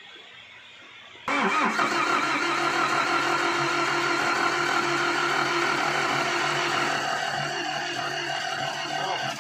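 Restored Mitsubishi FE engine starting and then running steadily. It begins suddenly a little over a second in and stops abruptly near the end.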